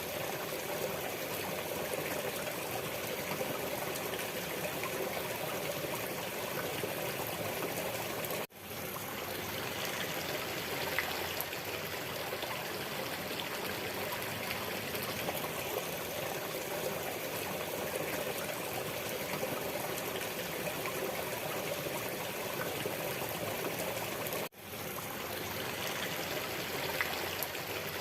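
Waterfall: water rushing and splashing steadily. Twice the sound drops out for an instant and fades back in.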